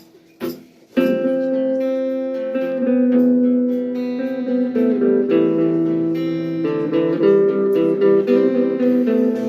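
Guitar playing an instrumental intro, ringing chords that change every second or two; a faint knock comes just before the playing starts about a second in.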